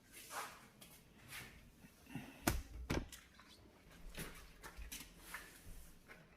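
Hand-cleaning an oven or stovetop: short, irregular scrubbing strokes about once a second, with two sharp knocks about halfway through, half a second apart.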